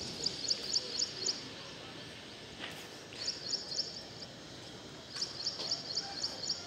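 A small bird calling in three quick runs of short, high chirps, several notes to each run, over steady faint background noise.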